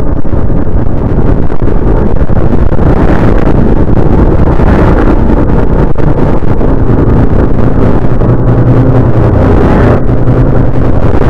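Loud, steady rumbling roar, presented as the sound of a moon of Jupiter.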